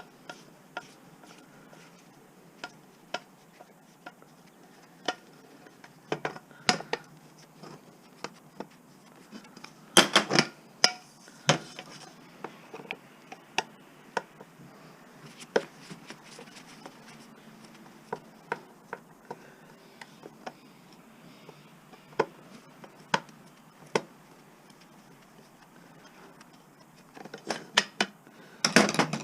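Metal clicks and clinks of a screwdriver and small parts being handled while dismantling scrap, scattered single taps with short bursts of clattering about ten seconds in and again near the end.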